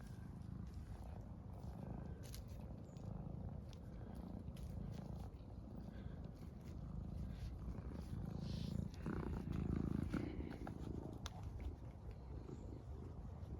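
A cat purring, a low steady rumble that swells briefly about nine seconds in, with scattered faint clicks.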